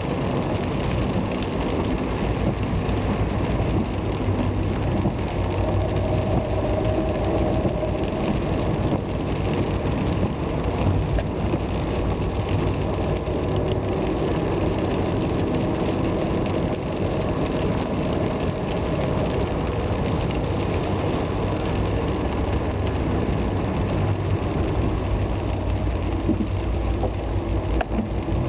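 Vehicle engine running steadily on the move, with continuous road and tyre noise on wet roads; its pitch shifts gently now and then.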